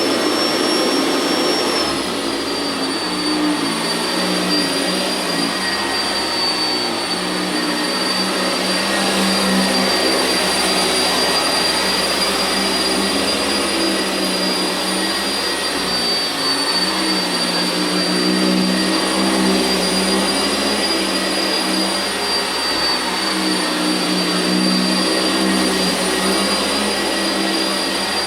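Sanitaire SC679j upright vacuum cleaner running steadily, with a high motor whine that drops slightly about two seconds in and then holds.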